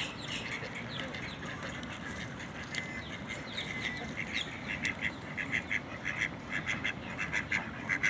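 Ducks quacking, a rapid run of short repeated calls that grows busier and louder over the last few seconds.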